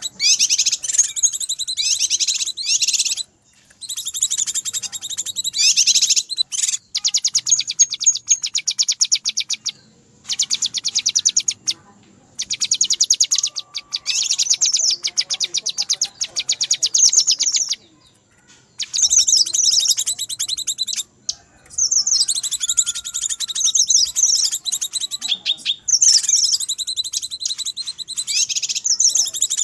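Cucak kinoi calling in an agitated, noisy way: rapid high chattering trills in bursts of a few seconds with short breaks, a lure recording for attracting wild kinoi.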